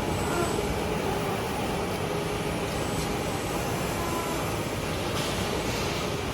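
Steady mechanical noise of running workshop machinery, an even rumble and hiss with faint whining tones coming and going.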